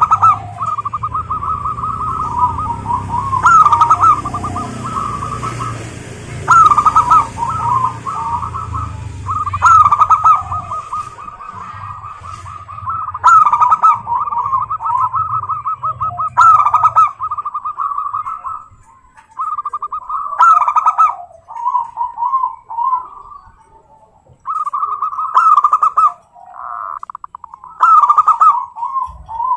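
Zebra dove (perkutut) cooing: phrase after phrase of quick, rolling staccato coos, each a couple of seconds long, with short gaps between them.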